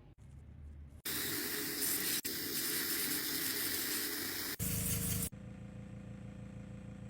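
Loud, even spraying hiss that starts abruptly about a second in and cuts off after three or four seconds, then a lower steady hum; the changes between the sounds are abrupt cuts.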